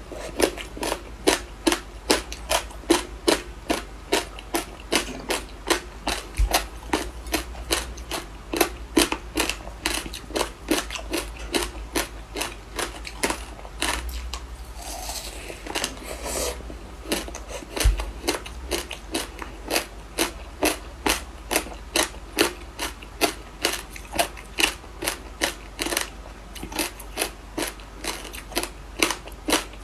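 Frozen passion fruit ice being bitten and chewed close to the microphone: a steady run of sharp, crisp crunches, about two or three a second.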